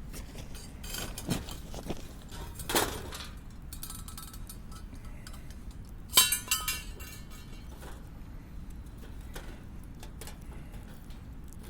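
Hard camping gear being handled: a few knocks and clinks, then one loud, sharp clink about six seconds in that rings briefly, and a few faint taps after it.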